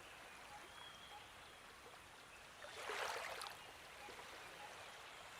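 Faint stream of running water trickling, swelling briefly about three seconds in.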